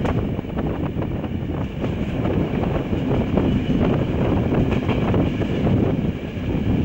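Regional passenger train running at speed, heard from an open window: a steady rumble and rush of wind on the microphone, with the wheels clicking and clacking irregularly over the track.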